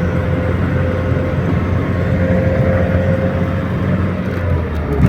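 GAZelle van cab interior while driving: steady engine and road rumble with a constant howl over it, which fades and drops in pitch near the end. The driver puts the howl down to the fan.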